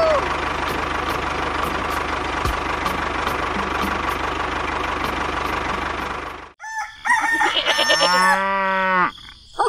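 A small motor runs steadily with a low hum and cuts off suddenly about six and a half seconds in. A few short farm-animal calls follow near the end.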